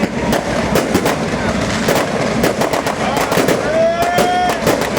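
Fireworks going off: a dense, continuous series of bangs and crackles from bursting shells, several per second.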